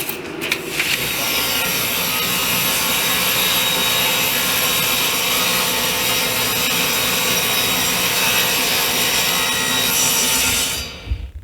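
Power saw cutting a cabinet board to length, one steady cut of about ten seconds that dies away near the end.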